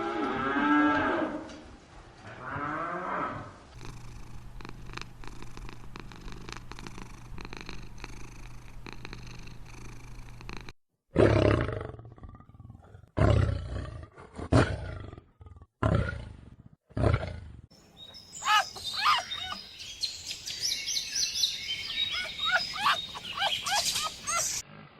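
A run of different animal calls. Pitched calls come first, then a quieter stretch with clicks. In the middle come five loud, deep roars about a second apart, and near the end a rapid series of high-pitched calls.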